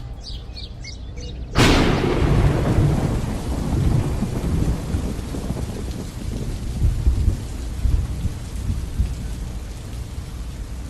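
A sudden clap of thunder about a second and a half in, followed by a long rolling rumble over a steady hiss of rain.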